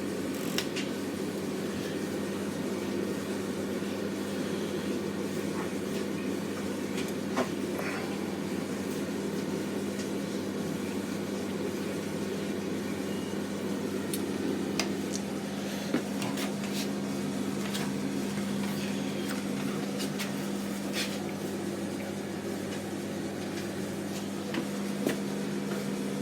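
Hotpoint FETV60 tumble dryer running with a steady hum and low drum rumble on freshly replaced drum bearings, with a few faint light clicks.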